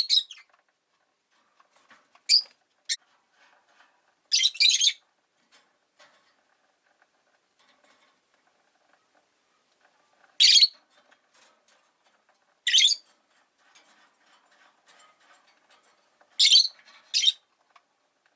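Rosy-faced lovebirds giving short, sharp, high-pitched calls, singly or in quick pairs, every few seconds, with faint background rustle between.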